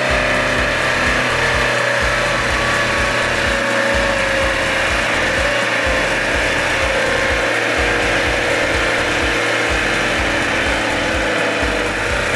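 A 4x4's engine running steadily under load with a high whine, over music with a steady repeating bass.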